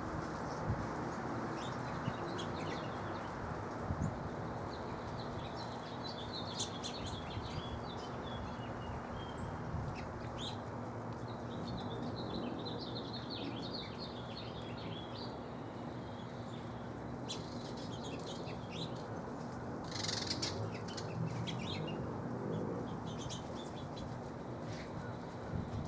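Small backyard birds chirping and calling in short, scattered notes over a steady background hiss, with a brief rustling burst about three-quarters of the way through.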